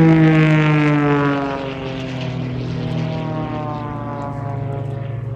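Propeller aircraft flying past low, its engine drone loudest at first and falling in pitch as it passes, then trailing off to a lower steady hum.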